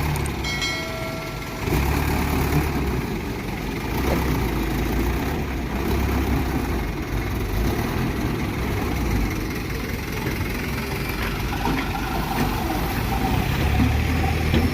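Diesel engine of a light dump truck running steadily at low revs. A short high tone sounds about half a second in.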